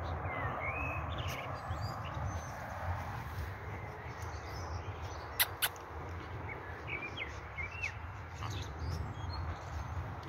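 Birds chirping in short calls over a low wind rumble on the microphone, with grass rustling near the start. Two sharp clicks come about five seconds in.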